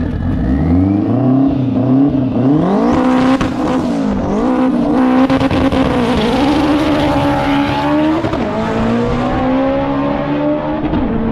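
Turbocharged K-series four-cylinder of an all-wheel-drive Acura RSX drag car revving hard at the starting line on its two-step, the revs climbing and bouncing, then launching and pulling away down the strip, with the pitch dropping sharply about eight seconds in.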